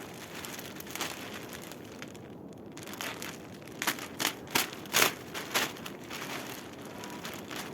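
Plastic sheeting rustling and crinkling as it is handled, with a quick run of about six sharp crackles around the middle.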